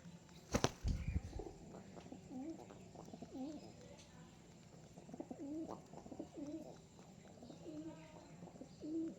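Pigeons cooing: a run of low, warbling coos one after another. There is a sharp knock with a low thump about half a second in.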